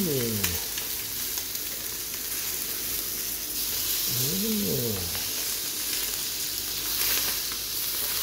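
Chicken sizzling steadily in a double-sided grill pan. There are two short calls that rise and then fall in pitch, one at the start and one about four seconds in.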